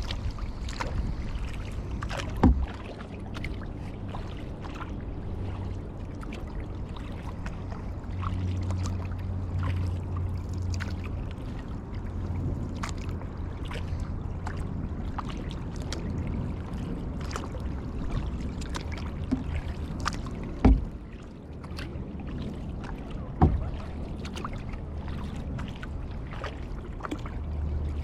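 Kayak paddling: paddle strokes and water dripping and splashing against a low steady rumble, with three sharp knocks, one early on and two close together near the end.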